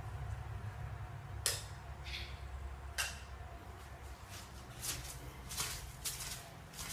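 Sharp knocks, two single ones, then a quicker run of clacks in the last two seconds, over a low steady rumble.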